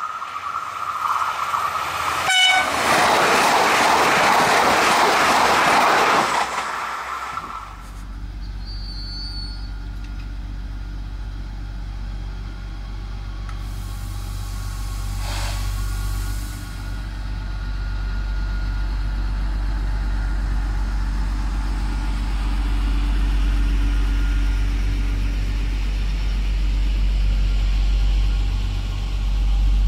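A train passing at speed on the open line: a sharp onset, then about five seconds of loud rushing noise with a horn-like tone in it. After a cut, a Bombardier AGC regional train rumbles steadily along the station platform, with a short hiss of air about halfway through.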